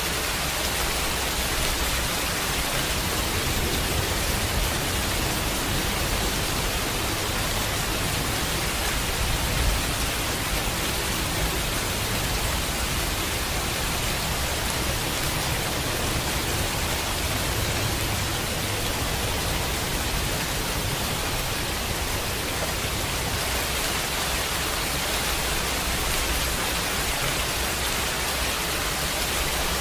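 Steady heavy rain, an even hiss with no let-up.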